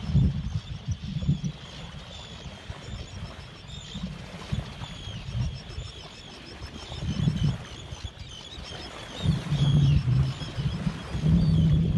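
Wind buffeting the microphone on a sailing boat in uneven gusts, strongest near the end, with faint high chirping throughout.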